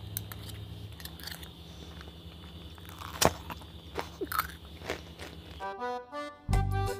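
Close-miked chewing of a mouthful of stir-fried chicken offal with basil and rice, with a few sharp crunches. About six seconds in, music with a steady beat starts.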